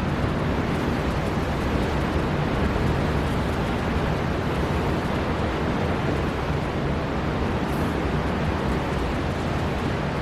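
Strong storm wind blowing over a rough sea, with waves on the shore: a steady, dense rush heaviest in the low range, without letup.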